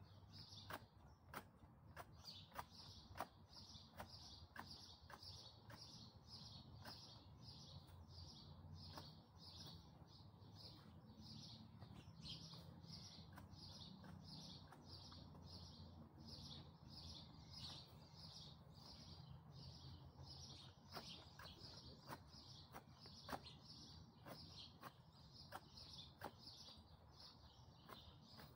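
Faint, even run of short high chirps from a small bird, about two to three a second and unbroken, with scattered light clicks.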